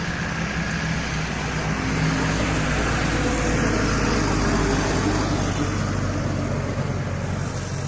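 An engine running steadily, growing louder about two seconds in and easing off toward the end.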